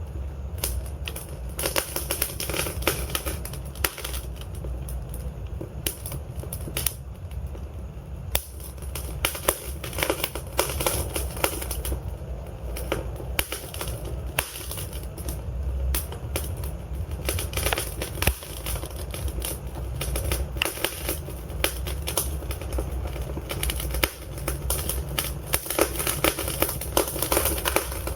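Wood fire burning in a fireplace: irregular sharp crackles and pops from the burning logs over a low rumble and hiss of the flames.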